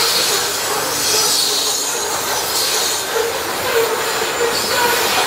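Open coal hopper cars of a CP freight train rolling past: a steady noise of steel wheels on rail, with a faint ringing tone that comes and goes.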